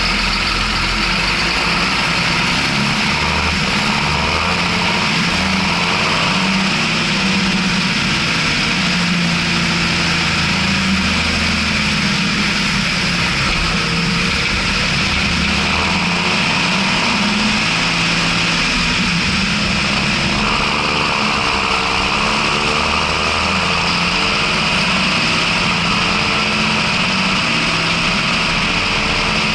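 John Deere 6620 tractor's six-cylinder diesel engine running steadily, its note shifting slightly in pitch now and then, with a steady hiss over it.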